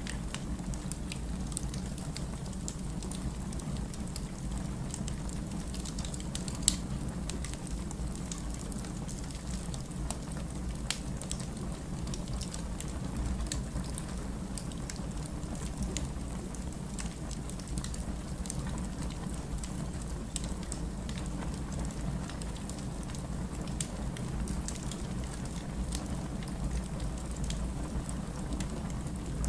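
Firewood logs burning in a fireplace: a steady low rumble under frequent small crackles and pops, with one louder pop about seven seconds in.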